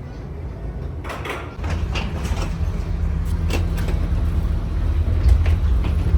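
A steady low engine rumble comes in about a second and a half in and holds, with a few clattering knocks over it.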